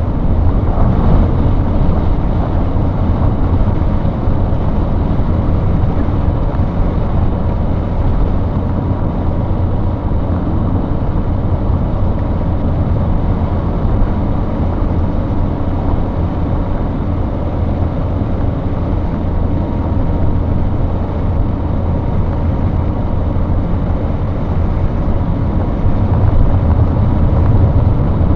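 Steady drone of a vehicle driving on a wet road in heavy rain, heard from inside: low engine rumble under a wash of tyre and rain noise.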